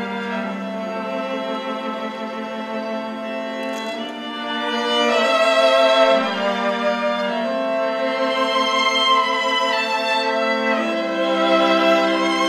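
Bowed string instruments playing a slow piece of long held notes: a violin melody over a lower string line, swelling louder about five seconds in.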